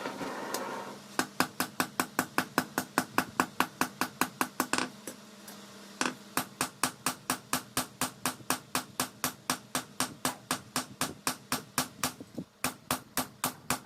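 Fast, even hammer blows on steel, about four to five a second, as leaf-spring steel is forged into a dao blade. The hammering starts about a second in after a steady rushing noise dies away, stops briefly near the middle, then resumes.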